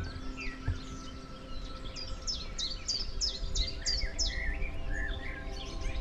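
Small songbirds singing: a quick run of about six high falling notes a couple of seconds in, followed by twittering. Underneath runs a faint steady hum of several held tones and a low rumble.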